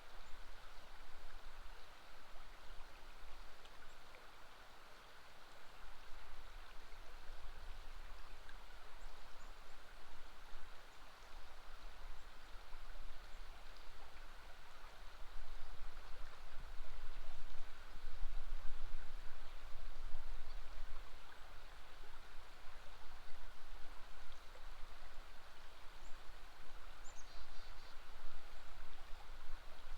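River water flowing steadily over a low rumble that rises and falls. A few faint, high bird chirps come near the end.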